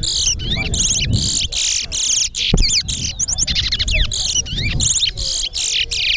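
Towa-towa (seed finch) males singing in a song-count contest: fast, continuous phrases of sweet chirped notes sliding up and down, with phrases overlapping as the two birds sing against each other.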